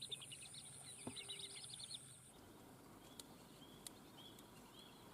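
Faint outdoor chirping of insects and birds: a steady high trill with rapid chirps, changing about two seconds in to a short chirp repeating roughly twice a second.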